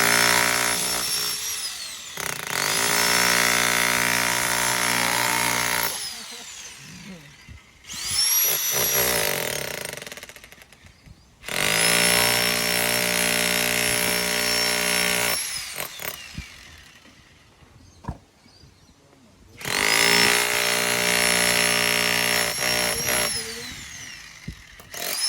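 Electric jackhammer run in four bursts of a few seconds each: a fast hammering with a high motor whine that winds down as each burst ends.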